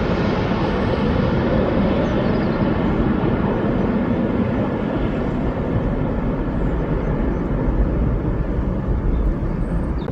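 Airliner engine noise as an aircraft passes: a steady, loud rumble whose higher hiss gradually fades.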